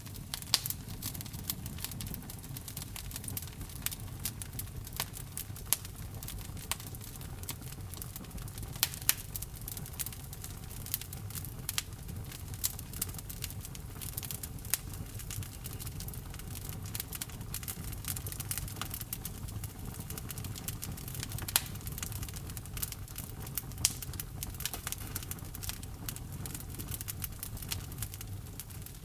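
Wood fire in a fireplace crackling, with frequent sharp irregular pops and snaps over a steady low rumble of the burning logs.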